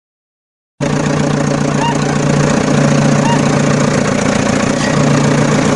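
A vehicle engine running steadily at idle with a constant low hum. It cuts in abruptly after a brief gap of silence, just under a second in.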